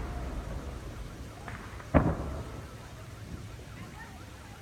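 Fireworks exploding overhead: a small bang about one and a half seconds in and a sharper, louder bang about two seconds in that rumbles away, with faint crackling near the end.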